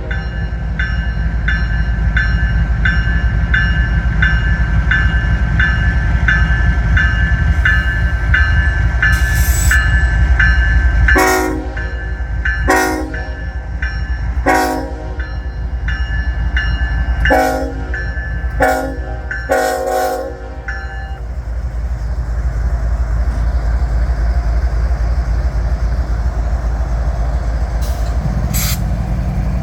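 Norfolk Southern freight train's diesel locomotives rumbling as the train gets under way. A bell rings steadily and rapidly for most of the first two-thirds. Between about 11 and 21 seconds the locomotive horn gives about six short toots, then the bell stops and only the rumble continues.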